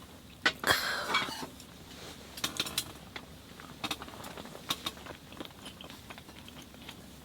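Small clicks and clinks of utensils and dishes being handled, with a longer scraping or rustling burst about a second in, then a few more scattered clicks.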